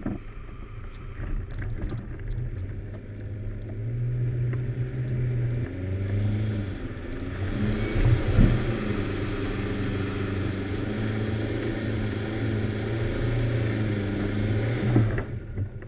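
Off-road 4x4's engine running under load as it drives up sandy forest tracks, rising in pitch about four seconds in and again about eight seconds in. There is a sharp knock about eight seconds in, and a hissing rush from then until near the end.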